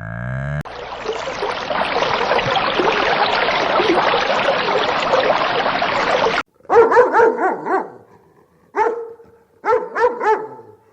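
A dense, continuous din of many overlapping short calls cuts off abruptly about six seconds in. A dog then barks in four short bouts.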